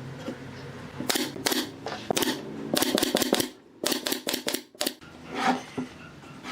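A rapid, irregular run of sharp clicks and knocks, several a second, starting about a second in and stopping near the five-second mark.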